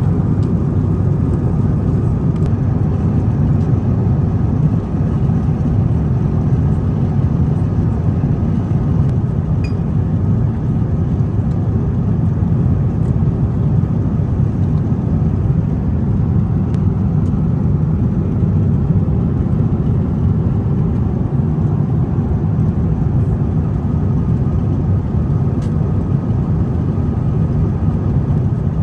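Steady low rumble of Airbus A350-900 cabin noise heard from an economy seat: Rolls-Royce Trent XWB engines and airflow, running evenly.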